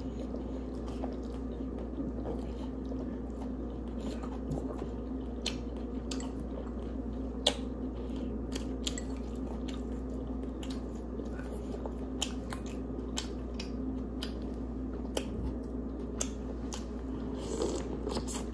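Close-miked eating sounds: wet chewing and smacking with scattered sharp clicks, and a bite into a sauce-dipped corn on the cob near the end, over a steady low hum.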